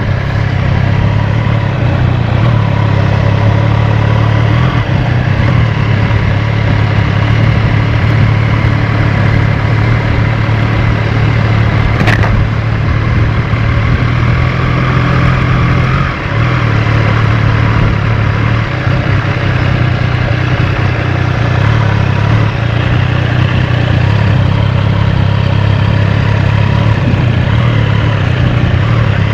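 Motorcycle engine running steadily at road speed, with a single short click about twelve seconds in and a brief dip in the engine note about sixteen seconds in.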